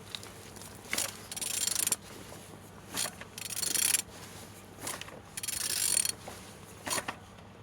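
An engine being turned over by hand: three stretches of mechanical whirring and ratcheting, each starting with a click, as the rotating assembly is rotated. It turns freely, which the inspector calls turning good.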